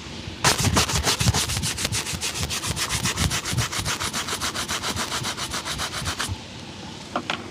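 A shoe being buffed to a shine with quick, even back-and-forth strokes, about eight a second. The strokes start just after the beginning, stop about six seconds in, and are followed by a couple of light knocks.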